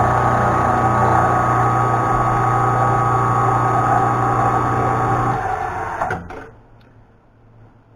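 Milling machine running and cutting a flat on bar stock, a steady machine whine with constant tones. It shuts off a little over five seconds in and dies away within a second.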